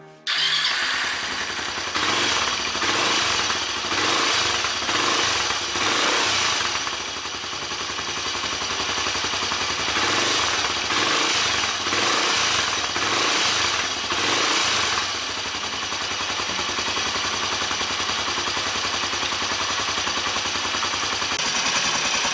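Kawasaki Estrella's air-cooled single-cylinder engine running after a cylinder-head overhaul, revved in short blips about once a second, then settling to a steady idle about two-thirds through. It runs without the loud head clatter it had before, leaving only a slight timing-chain noise that the mechanic counts as normal mechanical noise.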